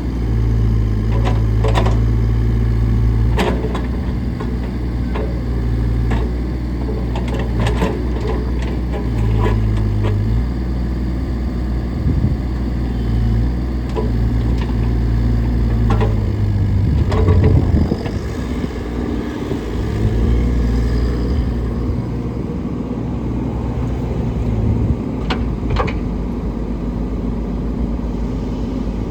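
Bobcat E35i mini excavator's diesel engine running steadily, with sharp knocks and clicks scattered throughout and a louder rough surge about two-thirds of the way through.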